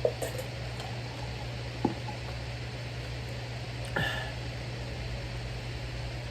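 Steady low hum of room noise, with a few brief small clicks and knocks, the sharpest about two seconds in, and a short squeaky sound at about four seconds.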